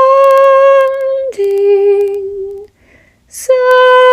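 A woman toning: a held, steady sung note that steps down to a lower note about a second in, a quick breath near the three-second mark, then another long held note.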